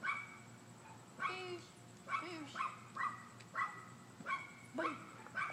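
A dog giving a series of short, high barks, about nine of them at a little under two a second.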